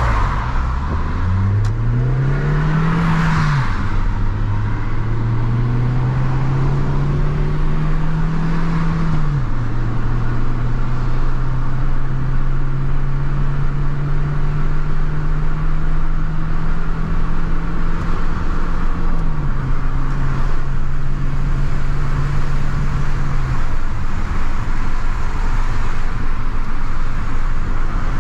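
First-generation Toyota Yaris four-cylinder engine heard from inside the cabin, accelerating through the gears. The engine note climbs steadily and drops sharply with each of three upshifts, about three, nine and nineteen seconds in. After about twenty-three seconds the engine note fades out, leaving steady road and tyre noise.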